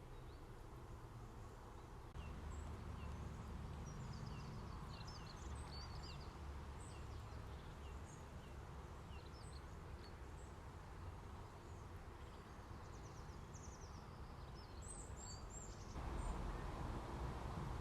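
Small birds chirping: scattered short high calls throughout, with a brief burst of louder calls near the end, over a steady low outdoor rumble.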